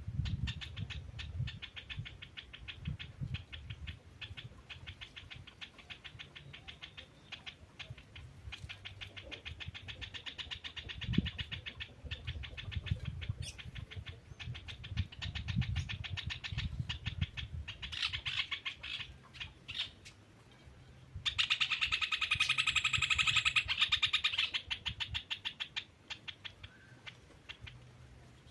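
Birds calling: a long run of fast, rapidly repeated chirps over low pulsing calls, with a louder, denser burst of calling lasting about four seconds about three-quarters of the way through.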